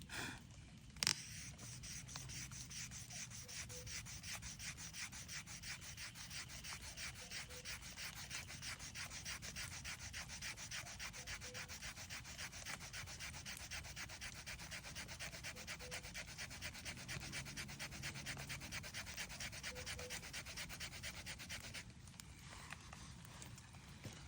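Fire plough: a wooden stick rubbed fast back and forth along a groove in a wooden base, an even rhythmic scraping that stops near the end. A single sharp knock comes about a second in.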